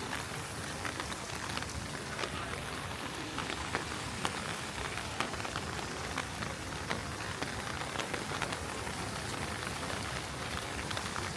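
Heavy rain falling steadily, a continuous hiss with many sharp drops ticking close by.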